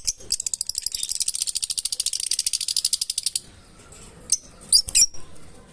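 Fischer's lovebird giving a fast, high-pitched rattling chatter of about 18 pulses a second for about three seconds, then a few short, sharp chirps near the end.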